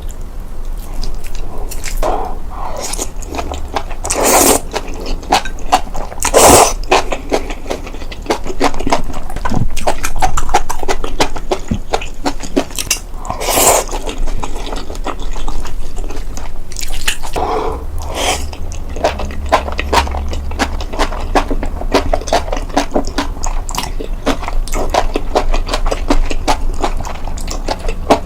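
Close-miked eating: food being bitten and chewed, with a steady run of wet mouth clicks and several louder bites.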